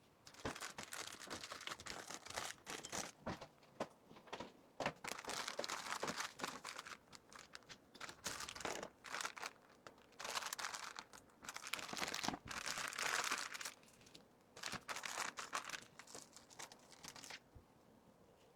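Plastic packaging crinkling in bursts as small items are handled and bagged, with brief pauses between bursts; it stops about a second before the end.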